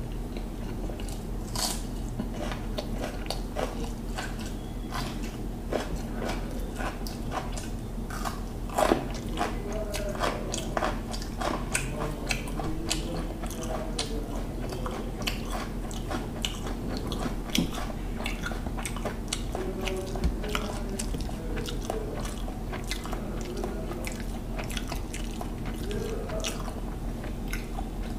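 Close-up eating sounds: a man chewing hilsa fish biryani by mouthful, with many small wet smacks and clicks coming fast and unevenly. A steady low hum runs underneath.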